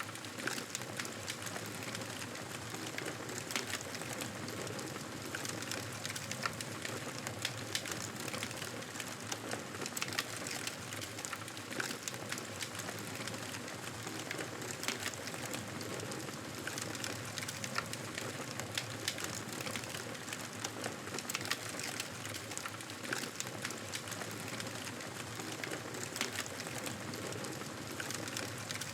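Wood fire crackling in a fireplace: a steady hiss with frequent small, sharp pops and snaps.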